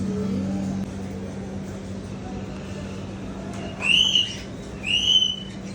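A bird, most likely a parrot, gives two loud whistled calls about a second apart, each sweeping up and then holding high. A steady low hum stops about a second in.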